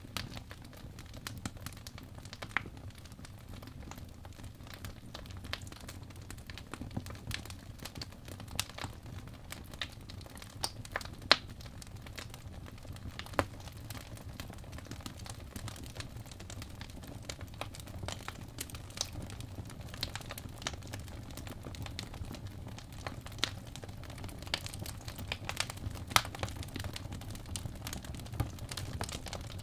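Fireplace fire crackling: irregular sharp pops and snaps, a few louder ones, over a low steady rumble.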